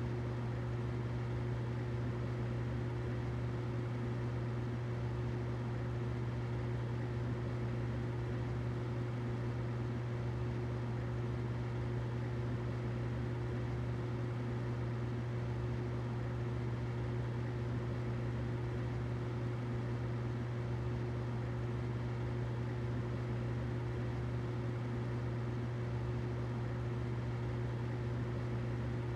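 Humidifier running: a steady low hum with a fainter, higher steady tone and a soft even hiss, unchanging throughout.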